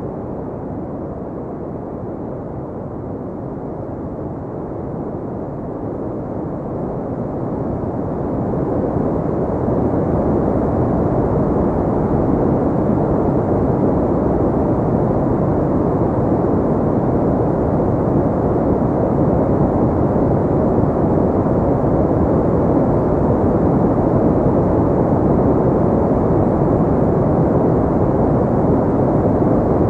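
Continuous pink noise: an even, deep hiss with little treble. It grows louder between about six and nine seconds in, then holds steady.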